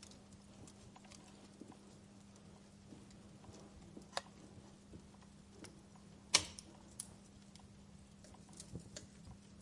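Wood fire crackling, with scattered small pops and one sharper pop a little past the middle.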